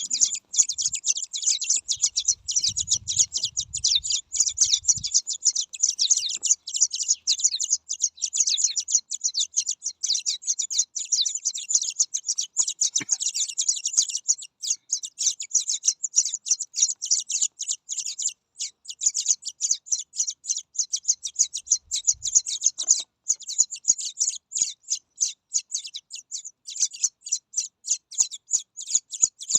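Baby birds chirping rapidly and continuously in high, piercing peeps: begging calls from nestlings being hand-fed.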